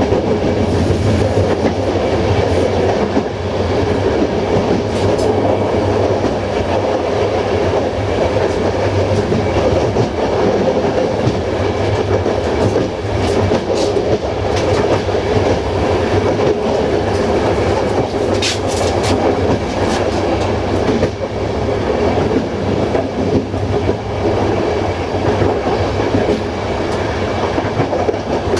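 Passenger train carriage running along the track, heard from the rear of the train: a steady rumble and rattle of wheels on the rails, with a few short high ticks around the middle.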